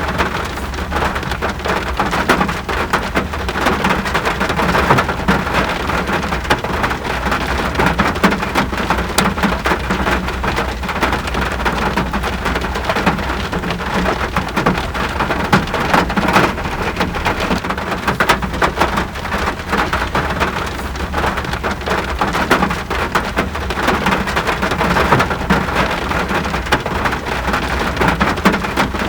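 Steady rain, many drops striking a surface in a dense, even hiss, over a constant low rumble.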